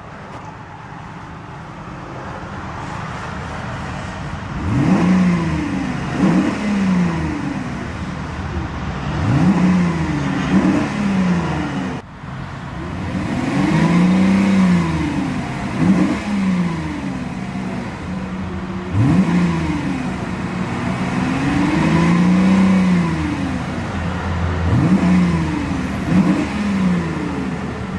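1997 Mercedes-Benz S500's 5.0-litre V8 idling, then revved about ten times. Some are quick blips and some are longer revs that rise and fall back to idle.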